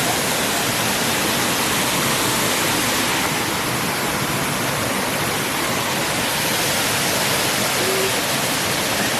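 Waterfall rushing steadily: La Coca Falls, an even, unbroken roar of falling water.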